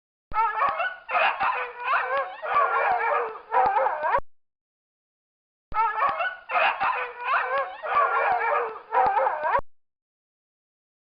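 A dog giving quick, wavering high-pitched calls in two runs of about four seconds, with a short silence between them. The second run looks like a near-identical repeat of the first.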